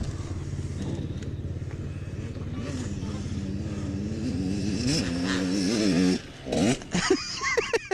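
Dirt bike engine running nearby, its pitch rising and falling with the throttle, then dropping away about six seconds in.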